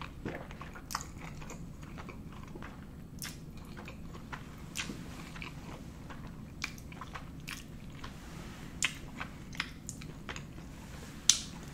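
Close-miked chewing of a mouthful of spaghetti carbonara: soft wet mouth sounds broken by scattered sharp clicks.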